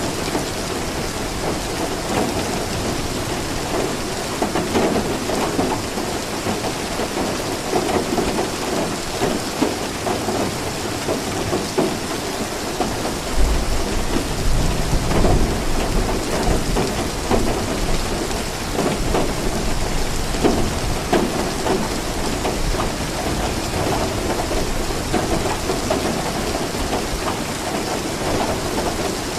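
Steady heavy rain, with a low rumble of thunder swelling about halfway through and fading a few seconds later.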